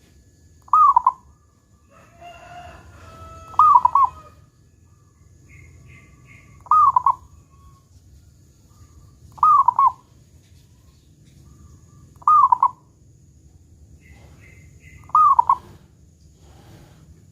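Zebra dove (perkutut) cooing: a short clipped phrase repeated six times at an even pace, about every three seconds. Between two and four seconds in, another bird's longer call overlaps, and there are faint higher chirps from other birds.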